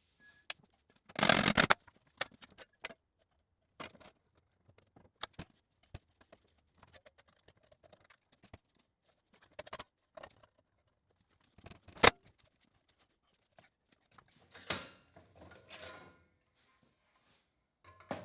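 Scattered workshop handling noises from tools and sheet metal: irregular clicks, taps and scrapes. A loud rough burst lasts about half a second a little after the start, and a sharp single click comes around twelve seconds.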